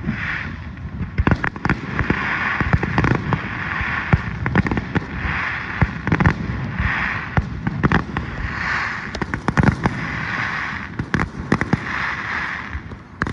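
Fireworks display going off: a fast, irregular string of sharp bangs and pops, with recurring bursts of hissing crackle about a second long between them.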